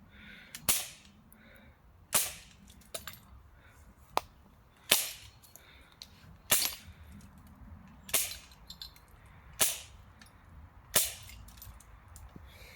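Pistol being fired at a bottle: seven sharp shots about a second and a half apart, with a couple of fainter clicks between them.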